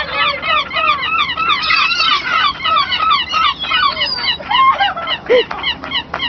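A flock of birds calling all at once: many short, quick, overlapping calls. About four and a half seconds in, the chorus thins to a few lower, longer calls.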